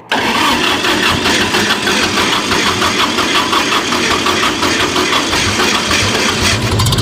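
Antique John Deere diesel tractor engine starting from cold: it comes in suddenly with a fast, even, rhythmic chugging, and near the end picks up into a heavier, steadier low running.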